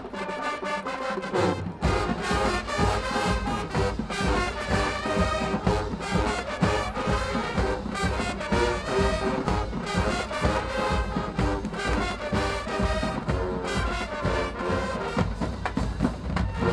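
A marching band playing with brass over a steady drum beat.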